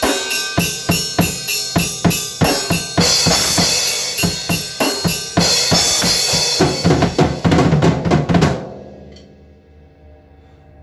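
Drum kit played in a steady driving beat, bass and snare hits with cymbals washing over them, stopping suddenly about eight and a half seconds in and leaving a low ringing tail.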